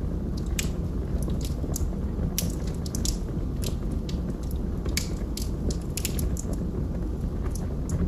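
Wood fire burning in a fireplace: a steady low rumble of the flames with irregular sharp crackles and pops from the burning logs, several a second.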